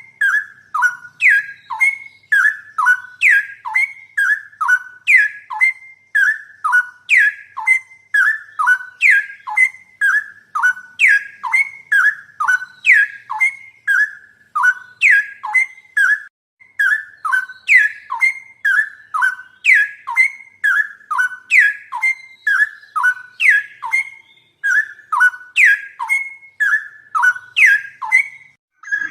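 A songbird's clear whistled call: a short phrase of falling notes, repeated over and over at an even pace of about once a second.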